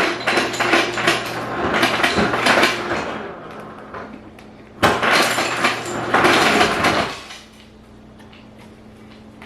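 Ice cubes clattering into a bowl in two loud rattling bursts, the second about five seconds in, over a low steady hum.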